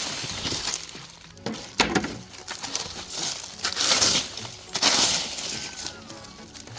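Dry leaves crunching and rustling in irregular bursts as they are turned over by hand.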